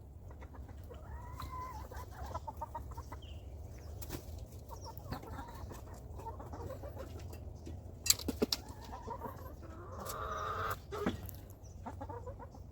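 Backyard hens clucking and calling as they peck at treats, with scattered sharp pecking clicks and a louder run of calls near the end.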